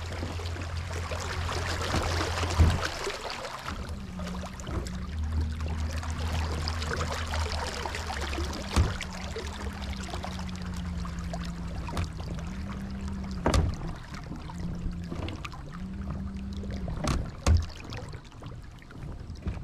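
Electric trolling motor humming on a kayak, its pitch stepping up and down now and then, over the rush of water along the hull. A few sharp knocks against the hull come through, the loudest about 13 and 17 seconds in.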